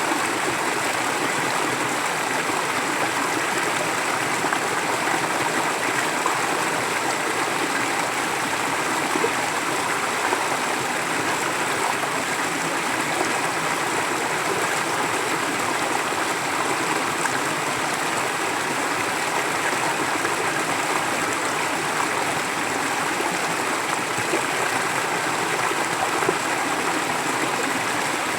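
Forest stream flowing steadily over rocks, a constant rushing and gurgling of running water.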